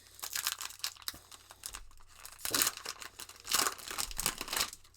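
A trading-card pack wrapper being torn open and crinkled, a run of rustling and tearing bursts that grow louder in the second half.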